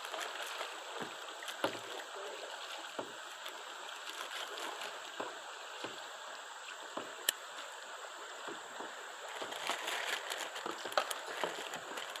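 Steady rush of river water flowing around a kayak, with occasional light clicks and knocks.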